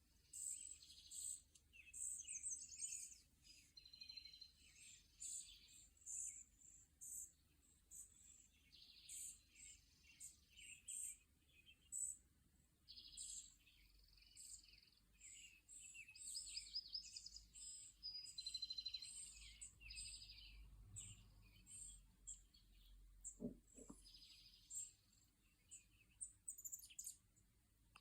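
Small songbirds chirping and twittering: many short, high calls and trills from several birds, overlapping and continuous.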